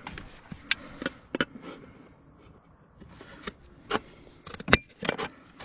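Scattered sharp taps and knocks of hand tools on fibre-cement artificial slates, about a dozen, irregularly spaced, with faint scraping between them and a sharp double knock near the end.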